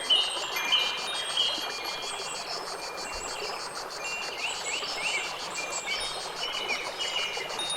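Layered nature soundscape. High, held chime-like notes give way a few seconds in to rising, chirping bird calls, over a fast, even insect pulsing and a steady hiss.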